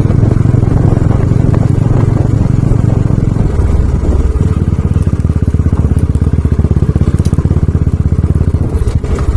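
Motorcycle engine running under load while climbing a steep, narrow road. Its note drops about a third of the way in and picks back up near the end.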